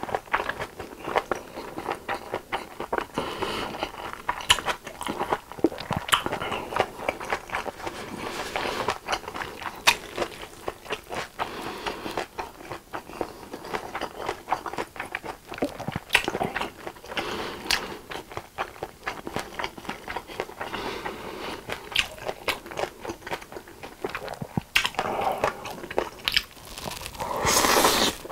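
Close-miked chewing of japchae, sweet-potato glass noodles with vegetables, full of wet, sticky mouth clicks. Near the end, a louder slurp as a chopstick-load of noodles is sucked into the mouth.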